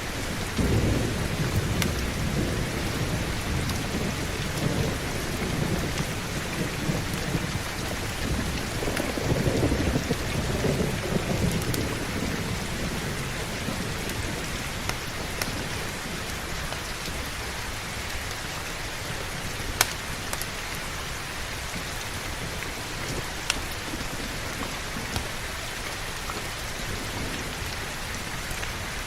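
Steady heavy rain with a long low rumble of thunder that starts about half a second in, swells again around ten seconds and dies away a few seconds later, leaving only the rain hiss. A few single sharp ticks stand out near the end.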